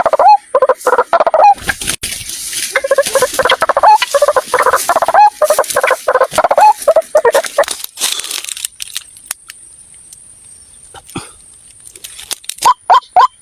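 White-breasted waterhen calling: a fast series of harsh, repeated notes that runs for about eight seconds with a short break near two seconds in. It stops and then resumes briefly near the end, with scattered clicks in between.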